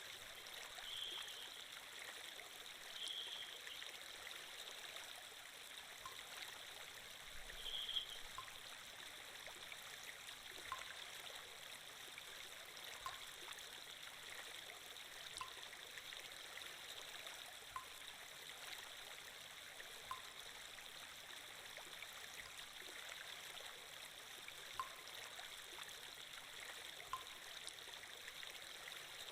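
Steady running-water sound effect like a flowing stream, quiet and continuous. From about six seconds in, a faint light tick repeats about every two and a half seconds.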